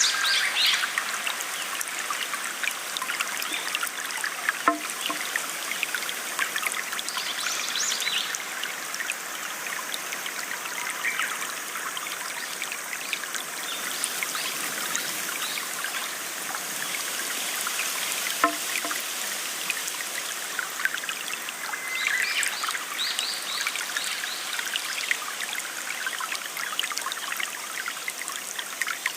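Flowing water trickling steadily, with short bursts of birds chirping at the start, about a quarter of the way in, and again later on.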